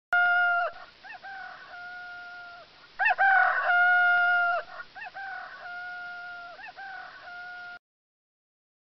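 Rooster crowing again and again, a loud crow right at the start and another about three seconds in, with fainter crowing between and after.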